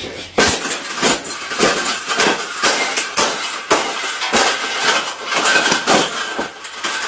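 A rapid, uneven run of hard blows and crashes, about two or three a second, as something is smashed apart.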